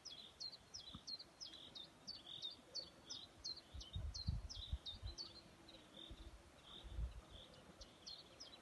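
A small bird calling, a short high hooked note repeated about three times a second, breaking off a little past halfway and starting again near the end. A few low bumps and faint outdoor background underneath.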